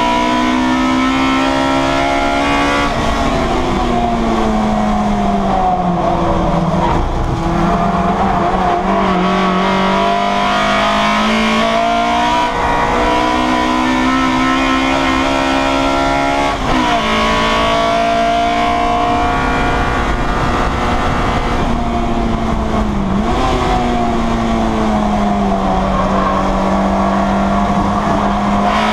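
Citroën Saxo race car's four-cylinder engine heard from inside the cabin, held at high revs, falling in pitch a few seconds in and climbing again. Quick gear changes break the note about halfway and again about three-quarters of the way through.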